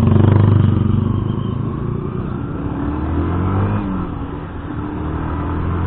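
Yamaha YZF-R15 motorcycle's single-cylinder engine running under way, loudest in the first second, its pitch climbing for a couple of seconds and then dropping as the throttle changes.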